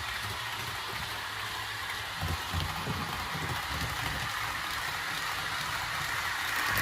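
REE TGV model train running at speed, its ESU TGV sound decoder playing a steady hissing running sound, with low rumbling from the wheels on the track. It grows a little louder near the end.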